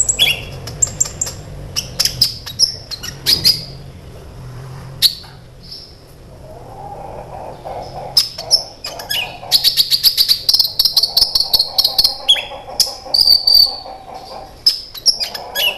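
Kolibri ninja sunbird singing: rapid high chirps, clicking trills and buzzy trilled phrases, busier in the second half.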